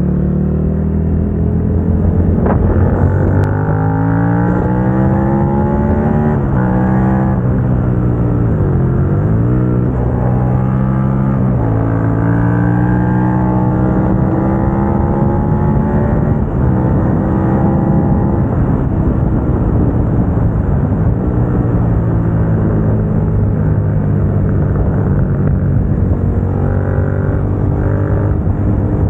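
Suzuki SV650 V-twin through an aftermarket Dominator GP exhaust, under way: the engine note climbs as the bike accelerates, drops sharply at upshifts a few seconds in and again about eleven seconds in, dips and comes back once in between, then settles into a fairly steady cruise.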